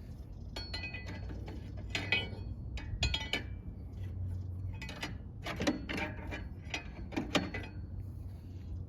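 Hand tools working on a truck brake chamber's mounting: about five short bursts of quick metal clicks and clinks, over a steady low hum.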